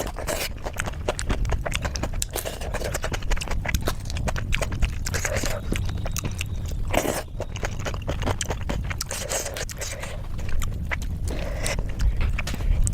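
Close-up chewing and wet mouth clicks of someone eating khichdi, a soft rice-and-lentil dish, many quick irregular smacks over a steady low hum.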